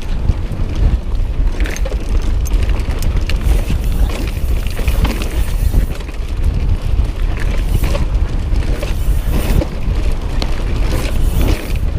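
Wind buffeting an action camera's microphone, with the rattle and knocks of a mountain bike riding over a rough dirt trail.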